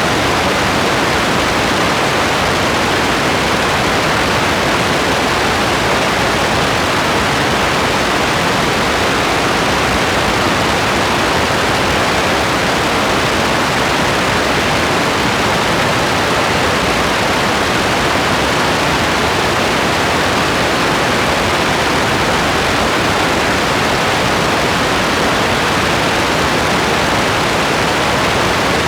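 Steady rain, a constant, even hiss with no single drops, thunder or changes standing out.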